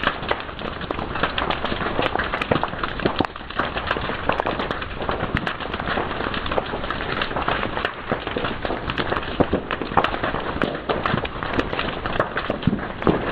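Fire crackling and popping, with many irregular sharp snaps over a steady hiss.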